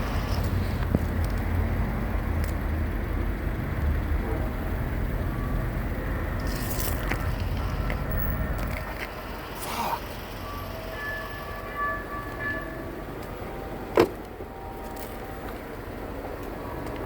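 Low rumble of a car on the road, which falls away about halfway through, leaving quieter background noise; a single loud, sharp knock comes a few seconds later.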